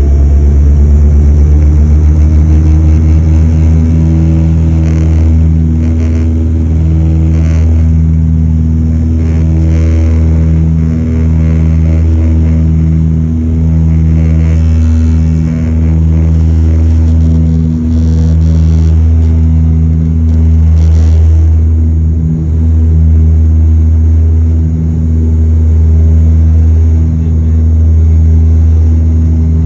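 Cabin drone of a de Havilland Canada Dash 8-200's turboprop engines and propellers under power: a loud, steady low hum that swells and fades about every two seconds.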